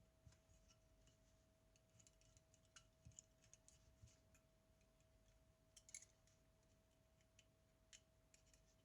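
Near silence with faint, scattered small clicks and ticks, the most distinct about six seconds in: small tools and metal parts being handled during the repair of a Zenit TTL camera. A faint steady hum-like tone lies underneath.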